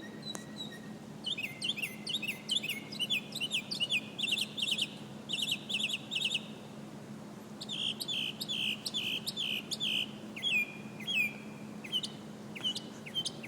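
Northern mockingbird singing: quick runs of short, repeated down-slurred notes, each phrase repeated several times before switching, with a brief pause about halfway through.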